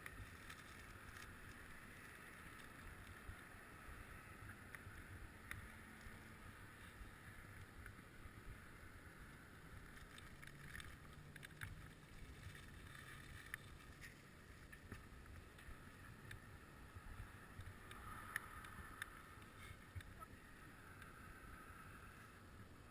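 Faint steady noise of a bicycle ride: low wind rumble on the microphone and a soft rolling hiss, with a few scattered light clicks.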